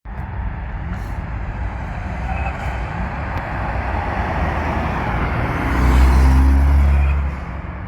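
Audi A5 TDI diesel with a loud exhaust pulling away. Its low engine drone swells to the loudest point about six seconds in, then falls off.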